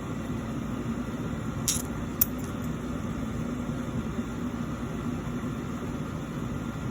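Steady low mechanical hum of background machinery, with two brief clicks about two seconds in.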